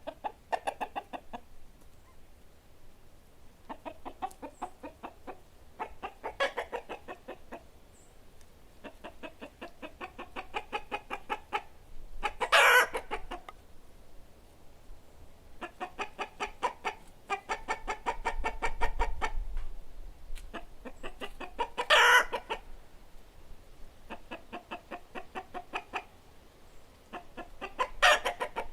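Hens clucking in repeated runs of rapid clucks, one bout after another, with three short, much louder calls cutting through.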